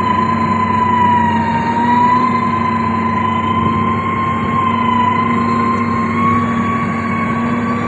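Heavy road-building machine engine running steadily, with a constant high-pitched whine that wavers slightly in pitch over a low hum.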